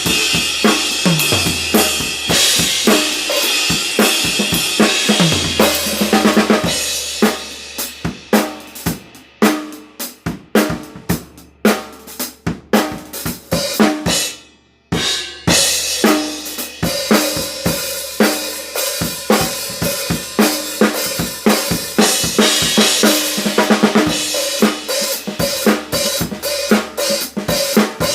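TAMA Club-Jam drum kit with Istanbul Mehmet IMC Bronze cymbals being played: a groove with cymbals, snare and bass drum, thinning to sparse single strokes in the middle with a short break about halfway, then the full groove with cymbals returns.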